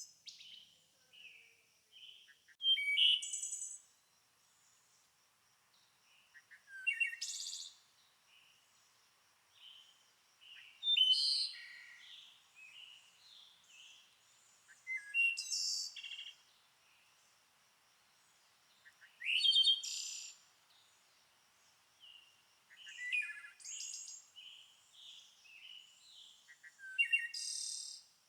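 A songbird singing short, loud, complex phrases about every four seconds, with softer chirps between them, over a faint steady high-pitched tone.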